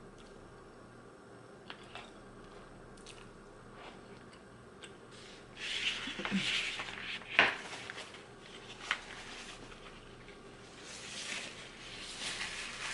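Close-miked chewing and mouth sounds of a person eating spaghetti with chicken, with wet smacks and a sharp click a little past halfway. Near the end, a paper napkin rubs against the mouth.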